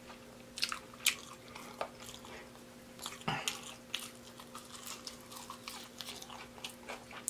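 Close-up eating sounds of a deep-fried baby back rib being bitten and chewed: scattered short crunches of the fried crust and wet mouth sounds, the sharpest about three seconds in. A faint steady hum sits underneath.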